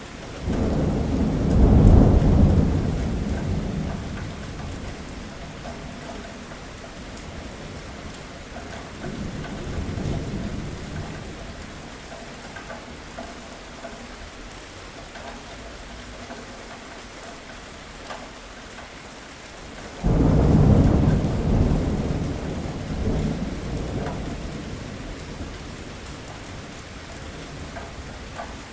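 Steady rain with three peals of thunder: a loud roll that breaks right at the start and rumbles away over about four seconds, a fainter rumble a little before the middle, and a second loud roll about two-thirds of the way through that fades over several seconds.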